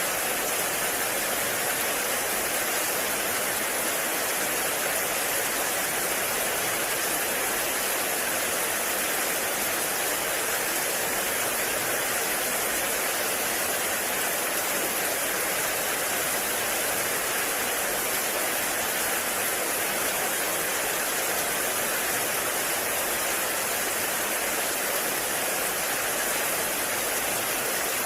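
Heavy rain falling steadily in a forest, a constant even hiss without separate drops standing out.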